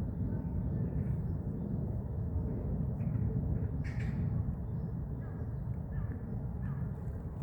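Crows cawing a few short, faint times over a steady low rumble.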